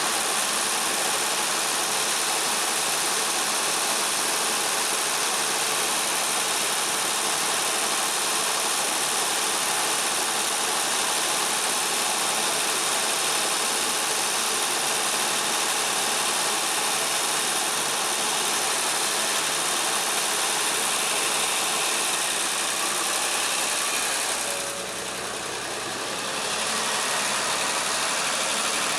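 Diesel engine of a CAT 320B long-reach excavator running steadily under work, an even, noisy drone that dips briefly near the end.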